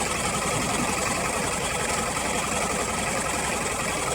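A motorboat's engine running steadily with a fast, even beat.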